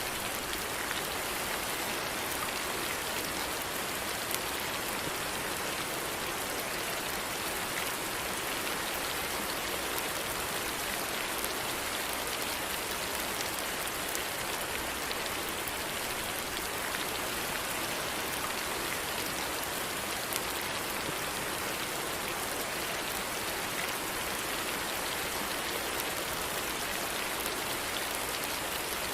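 Steady rainfall, an even hiss of drops with the odd faint tick of a single drop standing out.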